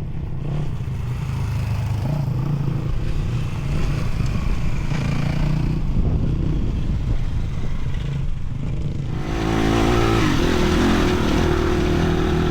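Crossfire dirt bike engines coming closer and getting louder, with a bike arriving close and much louder about nine seconds in.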